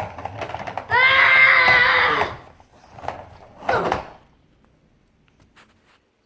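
A young child's voice making loud, high-pitched play growls in imitation of a truck: one long drawn-out cry about a second in and a shorter, falling one near four seconds.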